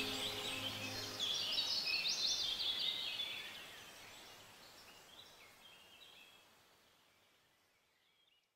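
Wild birdsong: many quick, high chirps and trills from several birds, fading away over the second half until they are gone.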